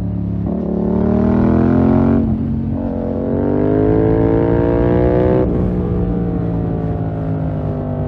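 2020 Yamaha MT-07's parallel-twin engine through a full SC-Project 2-1 exhaust, revving up under throttle. Its pitch drops at about two seconds and climbs again, then cuts sharply just past five seconds and settles to steadier revs.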